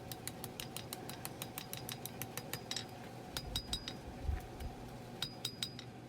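Hand hammer striking a small bar of hot steel on an anvil in quick light blows, several a second, some with a bright metallic ring, with a short pause about halfway through. The smith is hammering the steel over to round the top of a knife handle.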